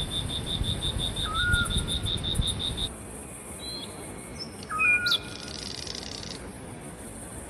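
Forest birds calling: a fast series of high pulsed notes, about seven a second, that stops about three seconds in, with short whistled calls from other birds scattered through, including a lower note repeated twice. A low rumble runs under the first three seconds.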